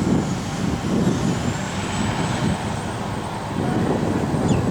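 Hydrema 912 articulated water truck's diesel engine running, a low rumble that rises and falls slightly.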